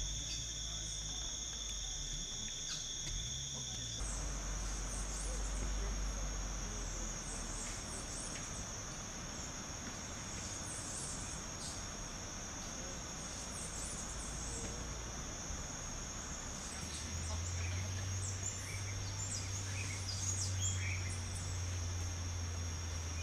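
Steady high-pitched insect chorus, like crickets trilling continuously, with short bird chirps scattered over it. One of the insect tones drops out about four seconds in.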